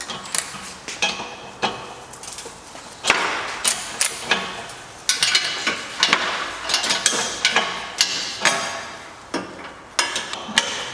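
Metal hand tools and bolts clinking and knocking while parts are unbolted from a car's transmission: irregular sharp metallic taps and clanks, some ringing briefly.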